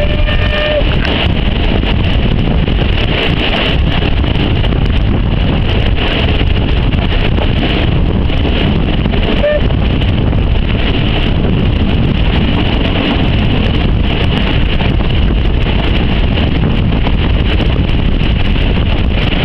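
Wind buffeting the microphone held out of a moving passenger train's window, over the steady rumble of the coaches running along the track.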